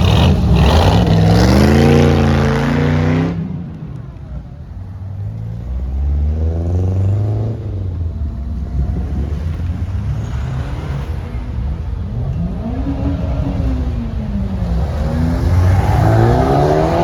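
Car engines revving: a loud rev climbing in pitch and cutting off about three seconds in, then several more engine notes rising and falling in pitch, with another strong rising rev near the end.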